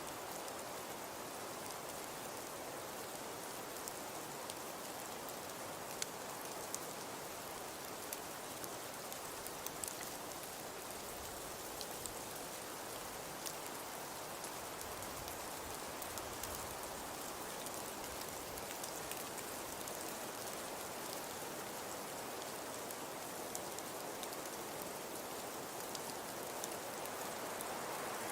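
Fireplace crackling: a steady soft hiss with scattered small pops and snaps.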